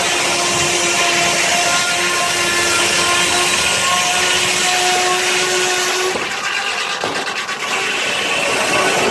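Steam-powered sawmill circular saw cutting through a log: a loud, steady rasp of the blade in the wood with a held tone. The cut ends about six seconds in, and the saw runs on more quietly.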